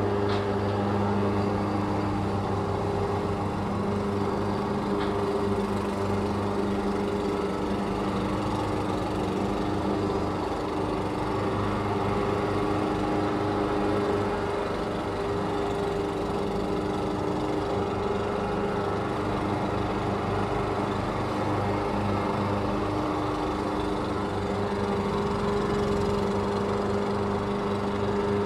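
Lawn mower engine running at a steady speed, its even hum holding the same pitch and level throughout.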